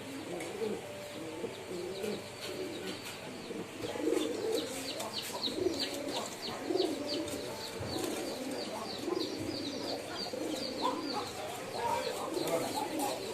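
Several pigeons cooing together in overlapping low calls, with a run of quick, high chirps from about four seconds in until about ten seconds.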